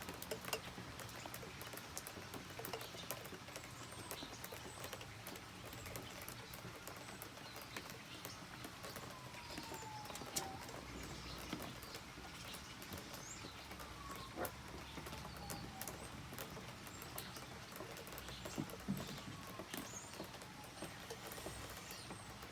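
Steady rain with drips pattering and ticking, and three slow falling whistles in the background.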